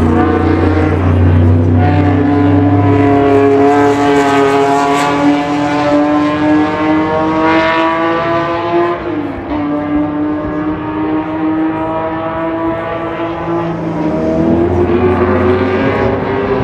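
Historic race car engines running hard at high revs, their pitch sliding slowly down and up as the cars pass and accelerate. About nine seconds in there is a brief dip in pitch.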